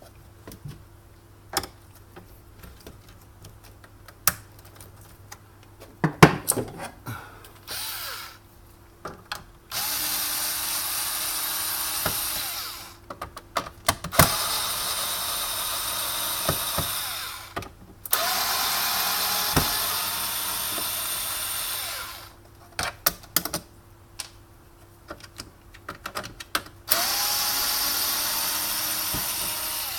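Power drill-driver backing screws out of an espresso machine's casing: four runs of a few seconds each, every one starting with a short rising whine as the motor spins up. Small clicks and knocks from handling the screws and parts come in between.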